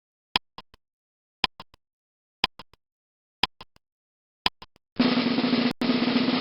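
Sound effect: five quick triple clicks about a second apart, like a ticking countdown, then a dense drum roll about two seconds long with a brief break in it.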